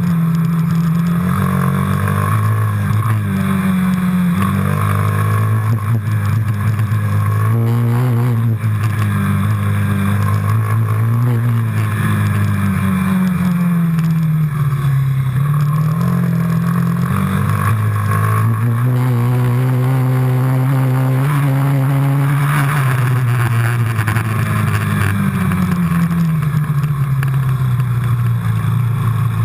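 Quad bike engine running while riding, its pitch rising and falling again and again as the throttle is opened and eased off.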